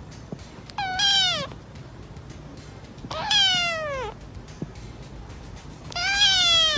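A cat meowing three times, each meow a drawn-out call that falls in pitch, spaced about two and a half seconds apart.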